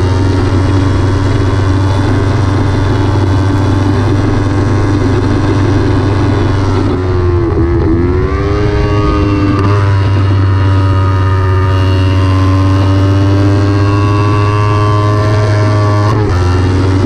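Kawasaki Ninja 300's parallel-twin engine running hard at high revs under race-pace riding. About halfway through the revs drop and then climb again, and they change once more near the end.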